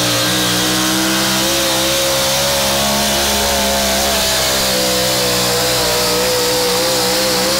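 Pulling truck's engine held at high revs under full load during a pull: loud and steady, its pitch creeping up slightly over the first second or two, then holding.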